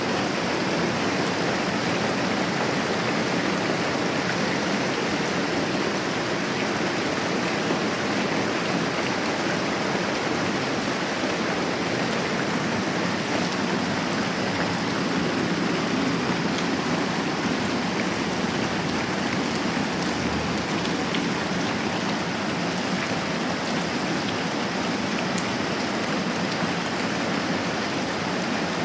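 Moderate rain falling steadily, a continuous even hiss of rainfall.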